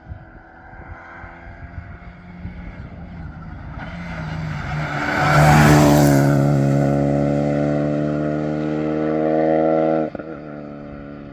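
Rally car approaching and passing flat out on a special stage. It is loudest about halfway through, its note dropping as it goes by, then its engine pulls on with a slowly rising pitch before lifting off abruptly near the end.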